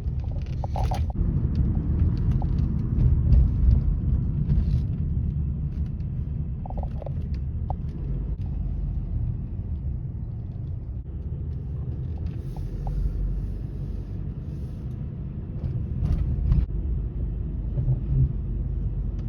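Steady low rumble of a car being driven, heard from inside the cabin, with a few light clicks and knocks.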